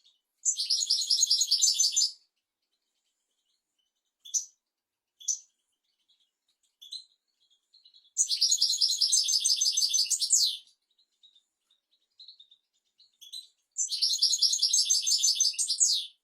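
European goldfinch singing: three fast, twittering song phrases of about two seconds each, about half a second in, near the middle and near the end, with a few short high call notes between them.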